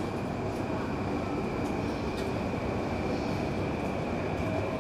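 Steady running noise of a train out of view, an even rumble with a constant high whine over it.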